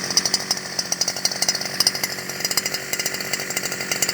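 Two-stroke brush cutter engine running steadily at working speed.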